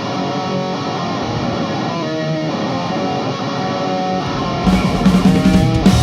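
Live rock band: an electric guitar plays a riff on its own, then about four and a half seconds in the drums and bass guitar come in and the music gets louder.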